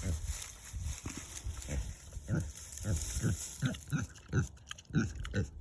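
Pet pig grunting, a run of short low grunts that comes faster through the second half, about two or three a second.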